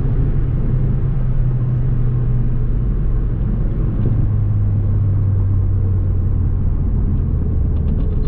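A car engine's low drone while driving, over a steady rushing road noise; the drone's pitch falls slowly as the car eases off.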